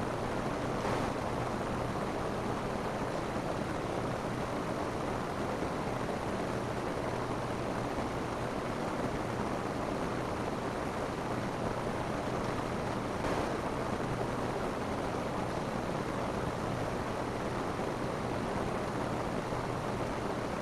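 Steady rain falling on a roof, a dense, even patter with no letup.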